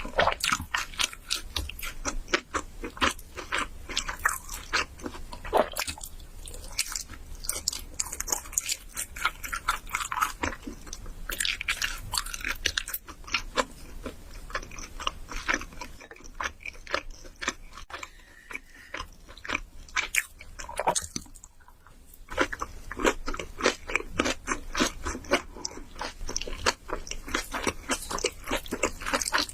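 Close-miked eating of spicy noodles: rapid, wet chewing and mouth clicks. The chewing thins out and grows quieter for several seconds in the middle, then picks up again.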